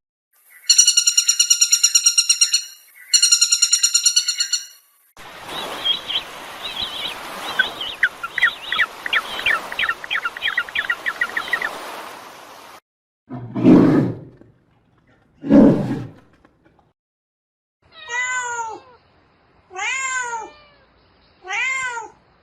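A run of different animal calls played one after another: two long high trilling calls, a stretch of fast chirping over a hiss, two short low calls, then a cat meowing three times near the end.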